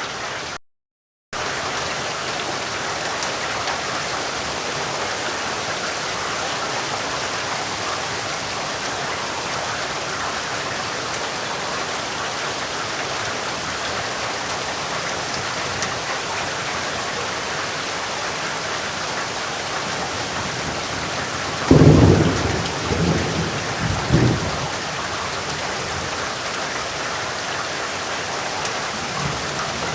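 Steady rain, with a sudden clap of thunder about two-thirds of the way through that rumbles on for a few seconds. The rain cuts out completely for about half a second near the start.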